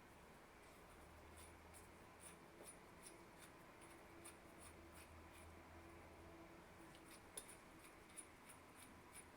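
Faint, scattered light clicks and handling noises from working a drill chuck and small drill-press parts by hand, over quiet room tone; one sharper click about seven seconds in.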